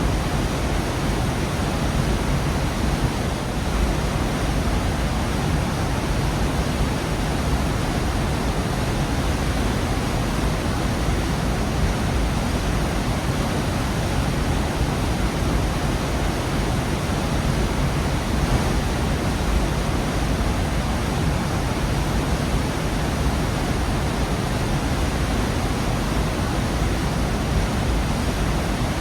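Waterfall in a rock gorge, a steady full rush of falling water, heaviest in the low end.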